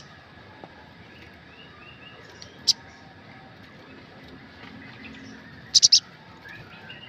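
Sunbird calling: one sharp, high chirp about three seconds in, then a quick burst of three loud chirps near the end, with softer twittering between.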